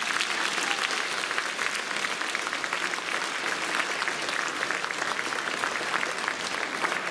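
Audience applauding steadily after a song, many hands clapping at once.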